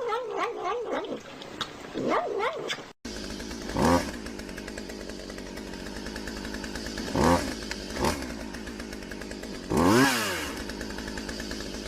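A cat meowing and wailing. Then, after a sudden cut about three seconds in, a small motor runs with a steady drone, and three short rising-and-falling animal cries are heard over it.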